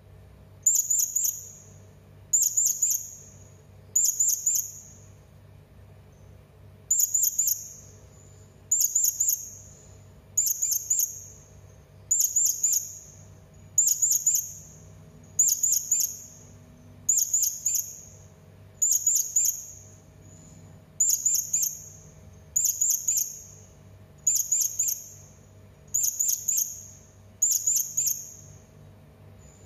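Serindit (hanging parrot) calling: short, very high, shrill clusters of three or four quick notes, repeated about every one and a half seconds, with one longer pause early on. A faint steady low hum lies underneath.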